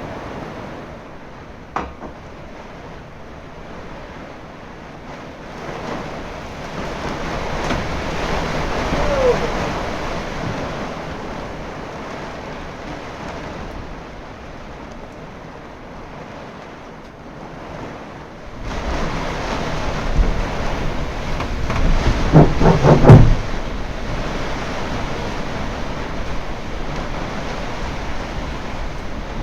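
Storm wind and heavy rain buffeting a sailboat, in gusts, with wind noise on the microphone. It swells, then turns suddenly much louder a little past halfway, and a short run of pitched squeaks comes soon after as the loudest moment.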